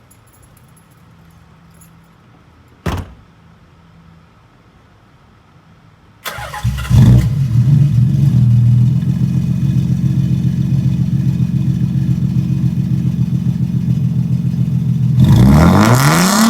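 Nissan 300ZX's VG-series V6 started through its new exhaust with two welded-in resonators: a short knock about three seconds in, then the engine cranks, catches and idles steadily. Near the end it revs, the pitch rising.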